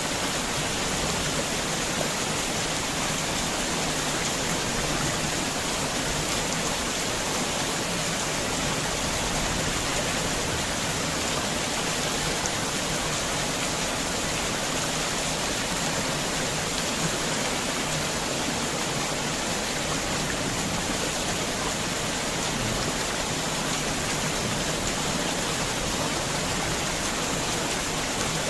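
Heavy rain falling steadily, a dense even hiss of rain with no thunder or separate drops standing out.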